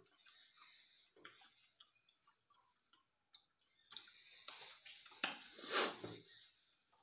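Faint eating sounds of rice and mutton curry eaten by hand: scattered chewing and lip smacks, with one louder, longer wet sound about five and a half seconds in.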